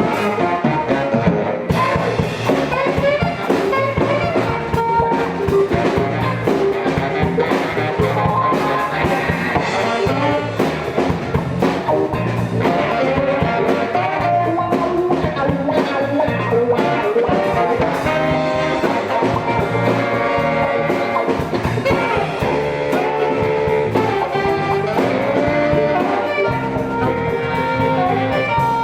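A band playing an instrumental jazz-funk tune: electric guitar, horns and drum kit.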